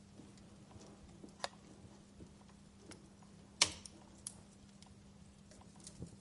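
Wood fire crackling in a fireplace: scattered sharp pops and snaps, one louder pop about three and a half seconds in, over a faint steady low hum.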